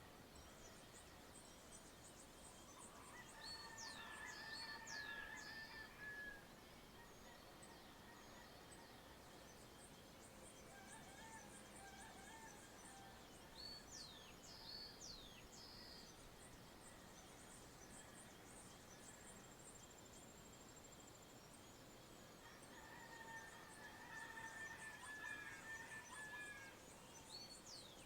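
Faint dawn countryside birdsong: groups of sharp, quickly sweeping high chirps recur a few times, and twice a longer, lower-pitched bird call lasting a few seconds sounds under them.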